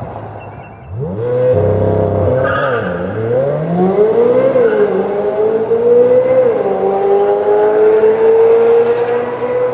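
Chevrolet C8 Corvette Z06's flat-plane-crank 5.5-litre V8 on a launch-control start. The revs jump about a second in and are held briefly, then the pitch climbs and drops through quick upshifts and settles into a long, slowly rising pull.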